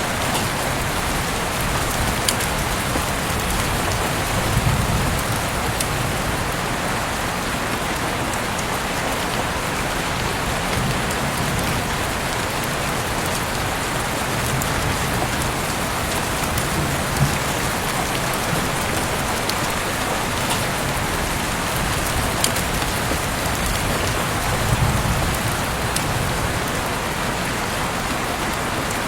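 Heavy rain falling steadily, an even hiss with occasional sharp drop impacts, heard through an open window.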